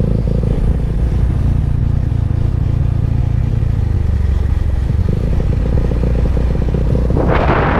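Benelli TNT25 motorcycle's single-cylinder engine running on the move, a steady low rumble that settles slightly lower about five seconds in, with a burst of hiss near the end.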